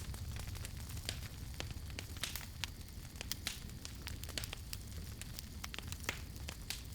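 Campfire burning, with irregular sharp crackles and pops several times a second over a steady low rumble.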